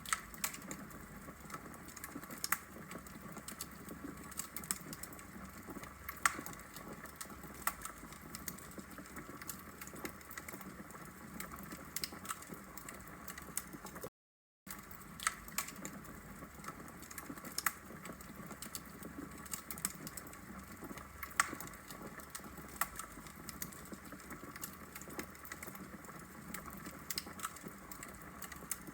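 Wood fire burning in a fireplace: logs crackling with frequent sharp, irregular pops over a steady hiss. The sound cuts out briefly about halfway through.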